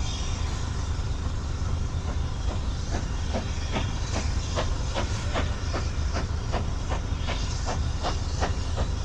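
Train on the line, with a steady low rumble and a regular clicking of about two beats a second that starts a couple of seconds in.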